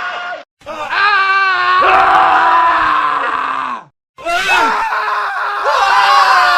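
Men screaming, several separate screams spliced one after another with abrupt silent cuts between them; one scream falls in pitch and tails off just before four seconds in, and a new one starts straight after.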